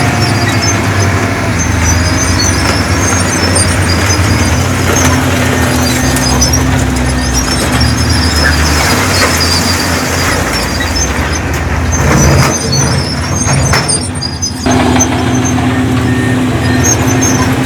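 Heavy diesel earthmoving machinery running steadily, with a low engine note and an intermittent high chirping above it. About twelve seconds in, the sound shifts briefly and dips, then the steady engine note comes back.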